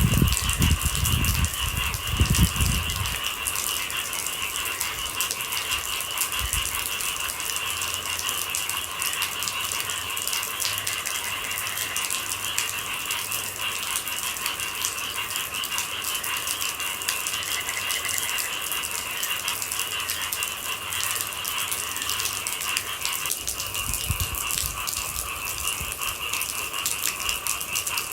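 Steady rain pattering as a dense crackle of drops, with a constant high-pitched hum underneath. A low rumble comes in during the first few seconds and again about 24 seconds in.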